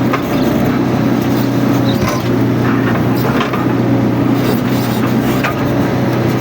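Mini excavator's diesel engine running steadily under work, with a few short clicks and knocks scattered through it.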